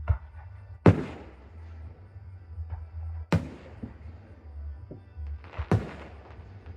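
Aerial fireworks shells bursting: four loud bangs a few seconds apart, each with an echoing tail, the loudest about a second in, with smaller pops between them and music playing underneath.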